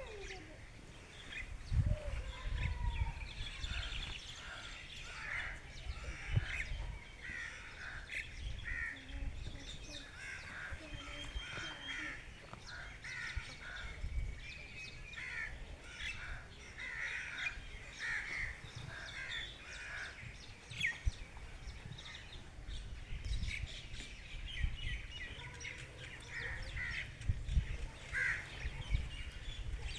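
Several birds calling over one another in short, repeated chirps and calls, with some harsher caw-like notes. Low rumbles come and go underneath, loudest about two seconds in, around the middle and near the end.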